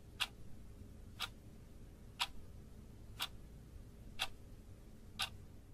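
Wall clock ticking once a second, six even ticks over a faint low hum.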